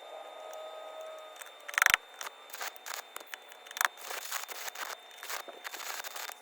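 Scattered light clicks and knocks, with one short, loud, buzzy burst about two seconds in.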